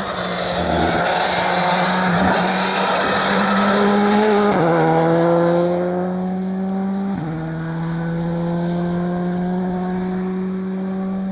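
Rally car engine under hard acceleration. Its note climbs, drops sharply at a gear change, climbs and drops again at a second change, then keeps rising. A loud rushing noise covers the first half, with some tyre squeal.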